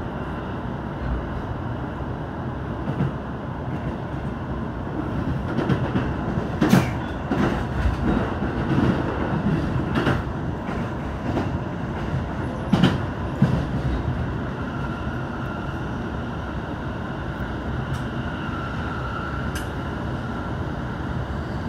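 Steady running noise heard inside a moving train car, with a run of sharp wheel clacks over rail joints and points between about five and thirteen seconds in. A faint whine comes in during the last few seconds.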